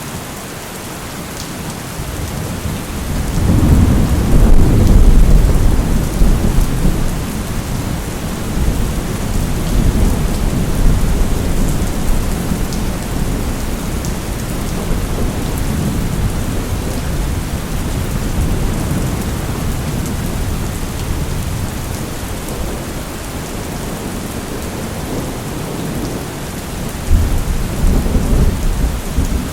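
Steady heavy rain with thunder rolling: a loud low rumble builds about three seconds in and rolls on for several seconds, and another rumble starts near the end.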